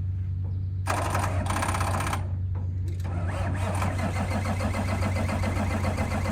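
Diesel engine of a 2009 Peterbilt 320 garbage truck running, a steady low hum with a fast, even clatter that comes in about a second in.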